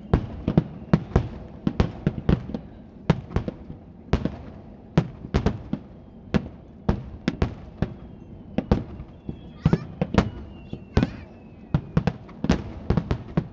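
Aerial fireworks shells bursting in quick, irregular succession, often several loud bangs a second, each trailing off in an echo.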